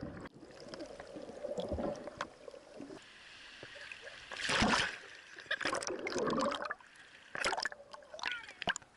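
Sea water sloshing and gurgling around an action camera in irregular surges and splashes, the loudest about four and a half seconds in and again around six seconds.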